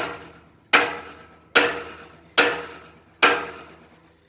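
Hammer striking the steel chassis of a công nông farm vehicle five times at an even pace, each blow ringing and dying away. The blows are meant to knock loose a section partly cut with a cutting torch that is not yet fully severed.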